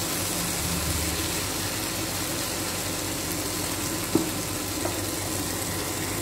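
Vegetables and paneer sizzling in a nonstick pan on high heat, dry-frying to drive off the last moisture. A spatula stirs through them, with a light scrape about four seconds in.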